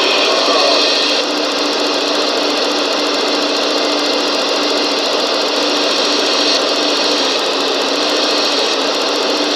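Small electric motors and gearing of radio-controlled construction models running steadily: a dense mechanical whir over a constant low hum, with the higher part easing a little about a second in.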